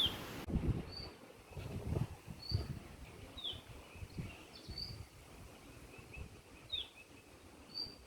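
Small songbirds calling: short high chirps about once a second, some slurring downward, with a faint trill in the middle, over a low uneven rumble.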